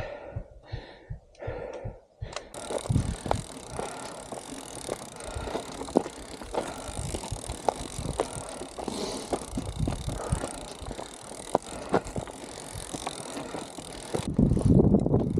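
Bicycle moving over rough, dug-up ground: a steady hissing rattle with scattered clicks and knocks. It starts a couple of seconds in and cuts off suddenly near the end, when wind starts buffeting the microphone.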